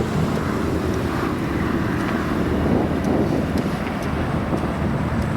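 Car engines running at low revs as cars pull out of a car park, with wind buffeting the microphone.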